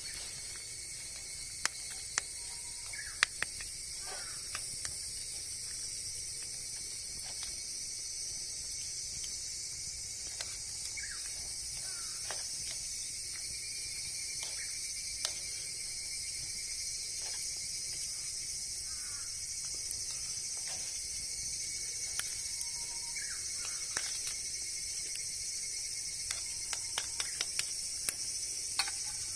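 A steady, high-pitched insect chorus with short descending bird calls every few seconds. Scattered sharp clicks, with a quick run of them near the end.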